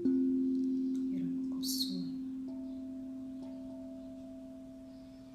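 Singing bowl tones ringing out. A low tone is struck at the start and slowly fades, and higher tones come in about two and a half and three and a half seconds in. A brief high chirp sounds a little before the two-second mark.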